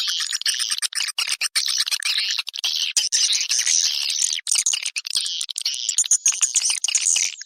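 Recorded swiftlet calls: a fast, dense twittering chatter of chirps and clicks with no low end. This is a lure call sound played to draw swiftlets in to nest.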